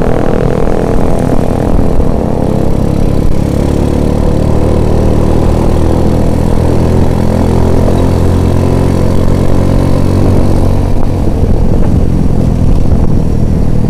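Small motorcycle engine running steadily at a cruise while riding along a road, heard from the rider's seat with road and wind rush.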